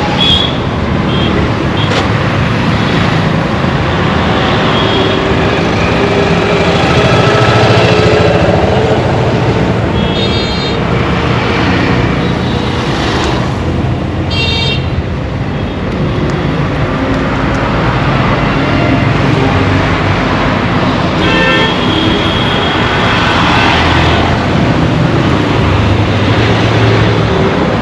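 Busy road traffic: a steady rumble of engines and tyres, with vehicle horns honking several times, including short blasts about a third of the way in, around halfway and again about three quarters of the way through.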